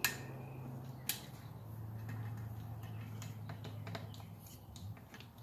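Sharp clicks and small ticks of a hose clamp being fitted back onto a water hose of a Thetford RV toilet: two sharp clicks, one at the start and one about a second in, then a run of fainter ticks, over a low steady hum.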